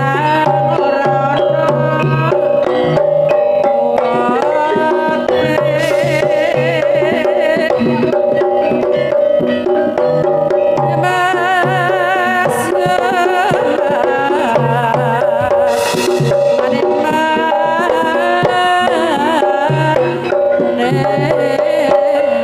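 Campursari band playing an instrumental passage: the kendang hand drum drives the rhythm under a repeating bass figure and a wavering, ornamented melody line.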